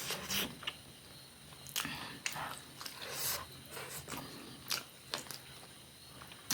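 Close-up eating sounds: a person chewing and biting food, with irregular short crisp clicks and mouth smacks every half second or so.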